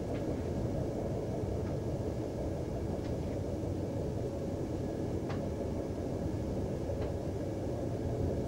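Steady rumble of a train in motion, heard from inside a passenger carriage, with a few faint short clicks now and then.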